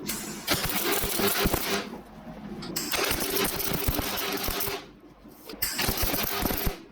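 A 9-inch angle grinder cutting metal in three bursts of harsh noise, with short quieter pauses between them and metallic clicking throughout.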